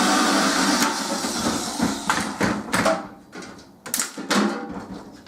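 Salvaged microwave parts being handled: a rustling scrape for about two seconds, then a series of sharp clicks and knocks as small plastic and metal pieces are moved about.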